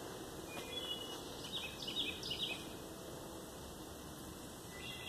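Small bird chirping in woodland: a few short, high notes about a second in, then a quick run of four or five falling chirps around two seconds in, and one more near the end, over a steady outdoor hiss.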